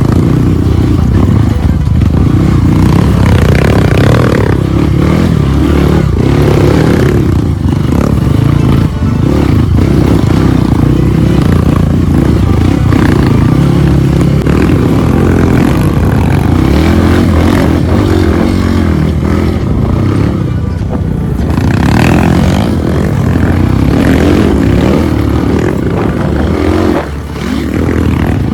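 Off-road trail motorcycle's engine running loud and close, its revs rising and falling as it rides.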